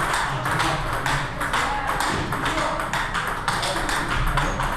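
Table tennis balls being hit in a rally: quick, irregular clicks of the ball off rackets and the table.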